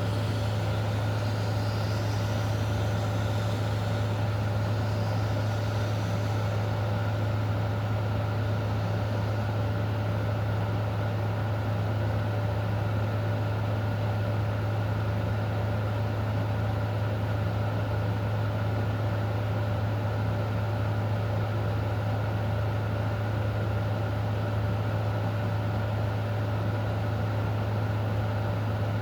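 A steady, unchanging low mechanical hum with a few steady higher tones over a faint even hiss, like a motor or engine running at idle.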